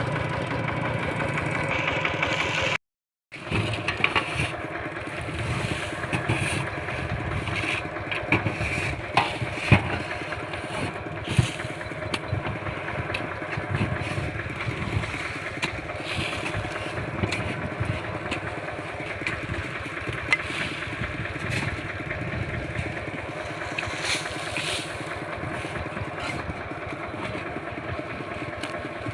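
A Kubota walk-behind tractor's single-cylinder diesel engine runs steadily. The sound cuts out for a moment about three seconds in, and a few sharp knocks sound over the engine.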